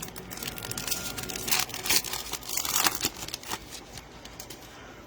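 Foil trading-card pack being torn open, the wrapper crinkling in a run of sharp, irregular rustles that die down about three and a half seconds in.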